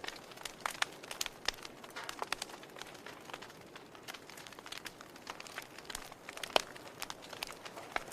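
Wood fire crackling in a fireplace: irregular sharp pops and snaps over a soft hiss, with one louder pop about six and a half seconds in.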